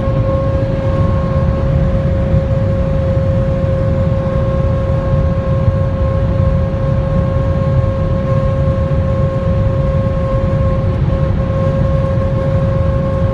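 Mercedes C 250d estate (S205) at very high speed: a steady, unbearable howl at one constant pitch over loud road and wind noise, the strange noise this car makes above about 210 km/h.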